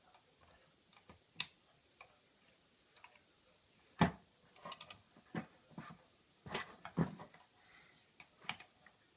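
Irregular clicks and knocks of a plastic toy truck being handled and moved about, with a sharper knock about four seconds in and a quick run of clicks a little later.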